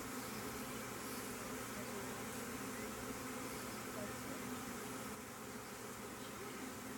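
Honey bee swarm buzzing in a steady hum around a nuc box as the bees regroup.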